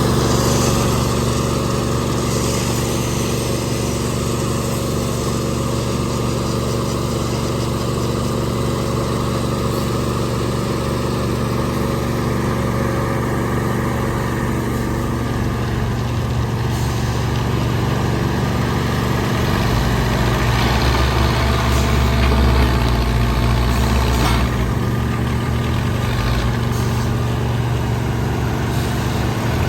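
Backhoe loader's diesel engine running steadily. About two-thirds of the way through, the low engine note grows heavier for a few seconds.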